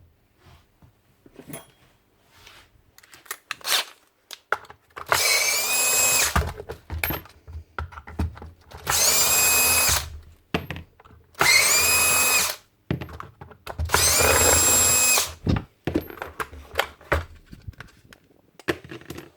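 An electric drill-driver runs four times in short spurts of about a second or more each, spinning up quickly and then holding steady, as screws are driven out to strip down a nail gun. Small clicks and knocks of the tool and parts being handled come between the runs.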